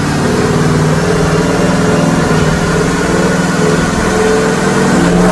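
Chevrolet TrailBlazer SS's LS2 V8 running at a steady engine speed under load on a chassis dyno.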